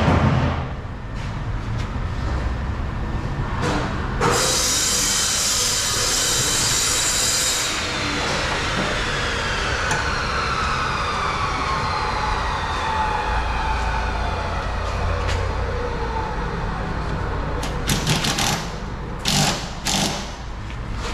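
A power cutting tool, such as an angle grinder or cut-off wheel, runs with a loud hiss for about four seconds while work is done on the exhaust pipe. Its whine then falls slowly in pitch as the disc winds down. A few sharp metal knocks follow near the end.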